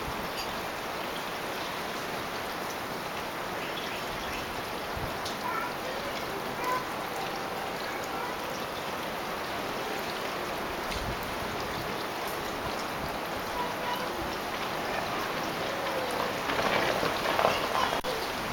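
Snowstorm with wind: a steady rushing noise with fine pattering of wind-driven precipitation, louder and rougher near the end.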